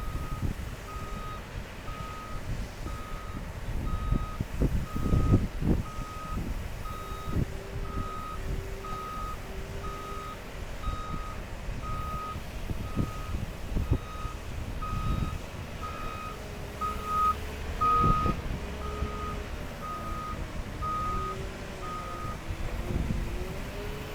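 Heavy-equipment reversing alarm beeping steadily about once a second, over the low diesel rumble of a wheel loader and haul truck; the beeping stops near the end. Several heavy thuds, the loudest about 5 and 18 seconds in.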